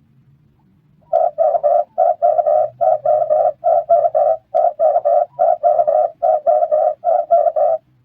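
Red turtle dove cooing: a long run of short, low coos in quick clusters of two or three, starting about a second in.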